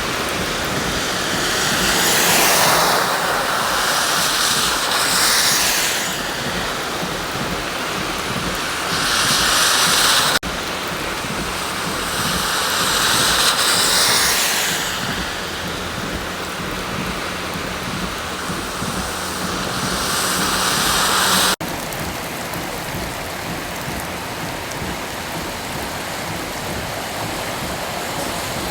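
Water noise from heavy rain and tyres splashing through flooded streets, swelling and fading several times as vehicles pass. The sound breaks off sharply twice.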